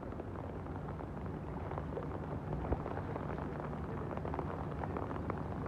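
Rain pattering steadily, a dense run of small drop ticks, over a low rumble.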